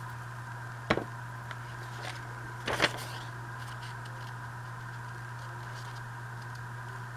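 Paper and craft tools handled at a work table: a sharp tap about a second in and a louder, brief rustle and clack near three seconds, over a steady electrical hum.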